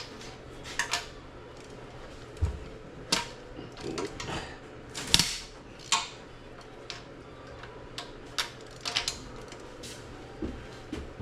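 Hand tools and loose metal engine parts clinking and clanking as they are handled and set down, in irregular single knocks, the loudest about five seconds in.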